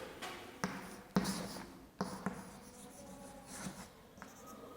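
Writing by hand, a series of short strokes of the writing tool against the surface as an answer is written out.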